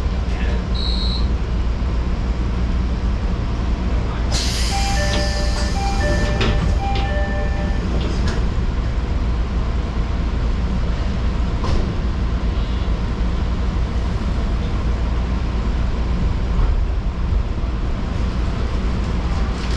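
Fujikyuko Line train running with a steady low rumble. About four seconds in, a hiss rises, and a short two-note electronic tone repeats three times over about three seconds.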